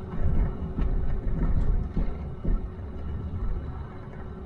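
Low, steady rumble of a truck driving slowly, heard from inside the cab, with a few light knocks.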